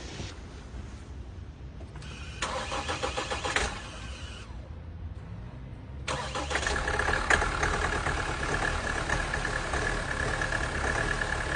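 Mahindra Scorpio SUV engine being cold-started at about −13 °C: a short burst of cranking about two and a half seconds in stops without the engine running on, then about six seconds in it cranks again, catches and settles into a steady idle with a high whine over it.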